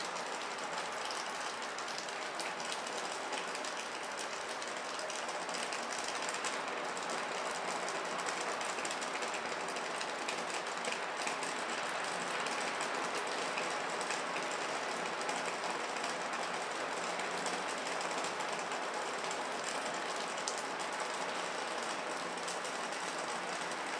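Steady rainfall: an even hiss made up of many fine drop ticks, holding one level throughout.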